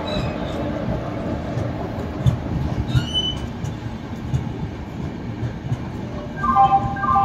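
Passenger train rolling slowly into a station, heard from a coach doorway: a steady rumble of wheels on rail, with a few clicks and knocks over rail joints. Brief high squeals come a few seconds in and again near the end.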